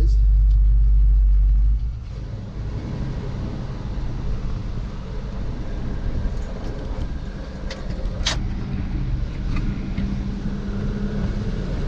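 Cab interior of a 1974 Ford F-250 with its 360 FE V8 running. A heavy low rumble cuts off about two seconds in, leaving steadier, quieter engine and road noise with a couple of sharp clicks just past the middle.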